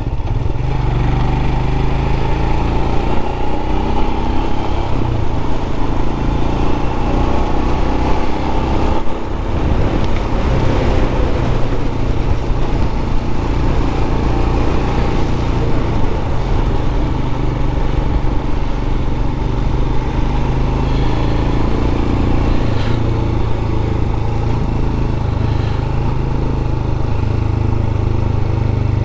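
A Royal Enfield 411 cc single-cylinder engine running steadily while the motorcycle is ridden along the road, under a constant rushing noise.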